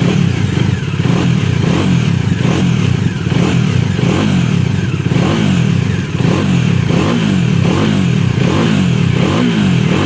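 Bajaj Dominar 400's single-cylinder engine revved through its exhaust, the throttle blipped over and over so the engine pitch rises and falls in quick repeated sweeps.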